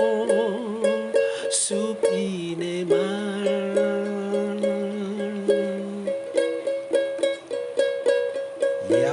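Ukulele strummed in a steady, even rhythm of repeated chords, under a voice singing long held notes.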